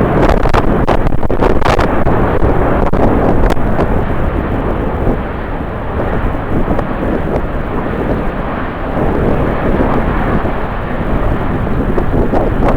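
Jet airliner engines running loud and steady, with strong gusts of wind buffeting the microphone in the first few seconds. The noise dips somewhat in the middle and swells again near the end.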